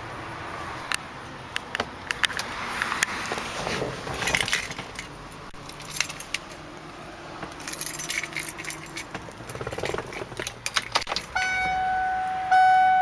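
Keys jangling with clicks and rustling from handling things inside a 1996 Ford Bronco's cabin. About eleven seconds in, the truck's warning chime starts, ringing again about once a second.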